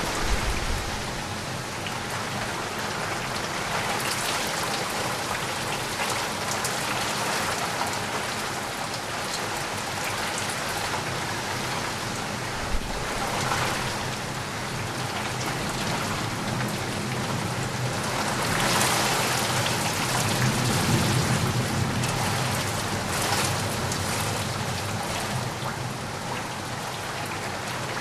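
Steady rain falling on a surface, an even hiss with drops pattering, swelling louder a few times. A low rumble builds under it about two-thirds of the way in.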